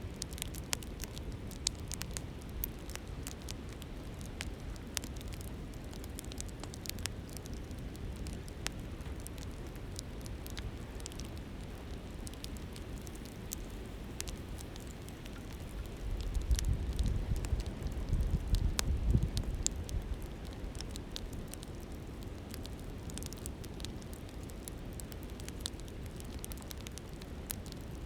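Campfire crackling with frequent sharp pops and snaps over the steady rush of a flowing river. A few seconds past the middle, a low rumble of wind on the microphone swells and fades.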